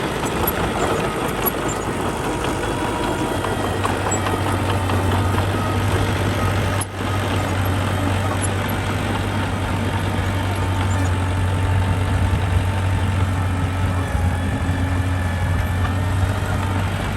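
Heavy machine's engine running steadily, with a constant low hum and a brief drop in sound about seven seconds in.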